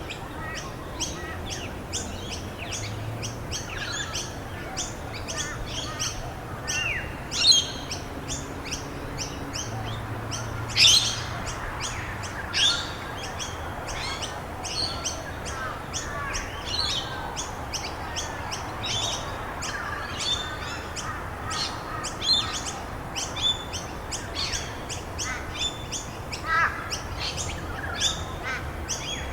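Many small songbirds chirping and calling rapidly, with a few louder calls about seven and eleven seconds in, over a steady hiss of falling rain.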